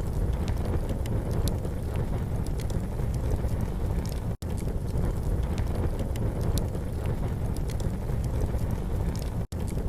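Campfire crackling, with small scattered pops over a steady low rumble. The sound cuts out for an instant twice.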